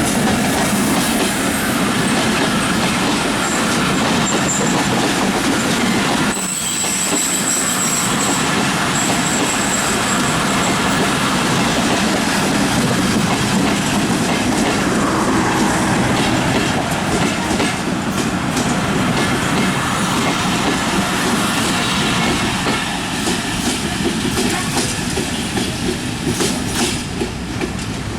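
Passenger train of LHB coaches rolling past, wheels clattering over the rail joints in a steady run of clicks, with a thin high wheel squeal for a few seconds starting about six seconds in.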